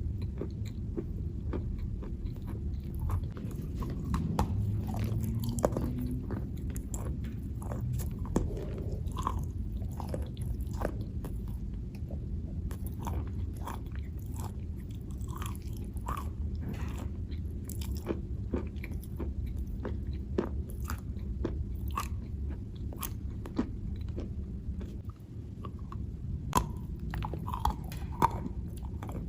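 A person biting and chewing chalk, giving a long irregular run of sharp crunches and clicks over a steady low hum.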